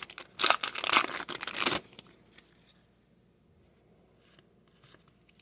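A trading card pack's wrapper being torn open and crinkled in a rapid run of crackling rips that stops about two seconds in. After that come only a few faint clicks of cards being handled.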